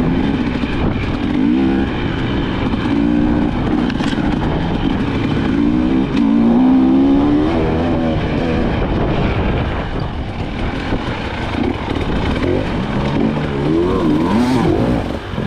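A KTM 300 XC-W two-stroke dirt bike engine being ridden, revving up and dropping back again and again as the throttle is worked.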